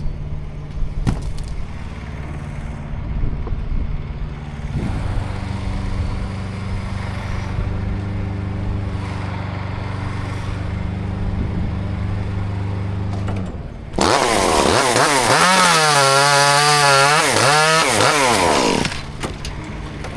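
An engine runs at a steady low hum, then about two-thirds of the way in a chainsaw revs up loud and cuts for about five seconds, its pitch sagging under load and rising again before it drops back.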